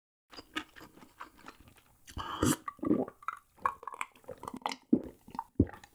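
Close-miked chewing of jjajang ramyun noodles, with irregular wet mouth smacks and clicks and a louder burst a little over two seconds in.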